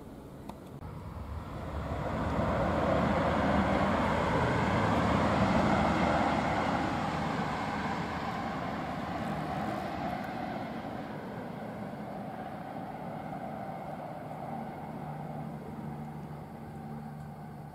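A Trenitalia high-speed train passing at speed: a rush of noise that builds over the first couple of seconds, peaks a few seconds in, then slowly fades away.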